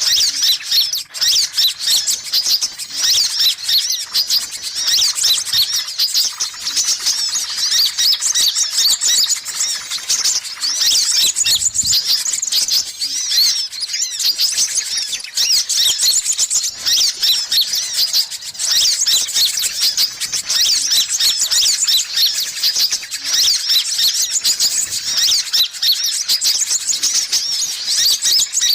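Sunbirds calling in a dense, unbroken stream of rapid, high-pitched chirps and twitters, played as a bird-lure recording.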